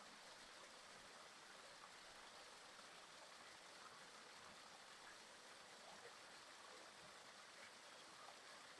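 Faint, steady babble of a woodland stream.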